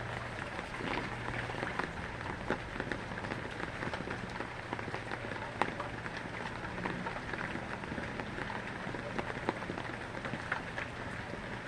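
Rain falling steadily, with many individual drops striking a hard surface as short sharp ticks over a continuous hiss, and a low steady hum underneath.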